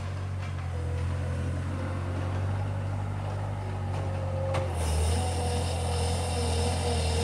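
Bobcat skid steer engine running steadily under a low hum with a wavering whine over it. A sharp knock about four and a half seconds in, after which a rougher, hissing scrape comes in over the engine.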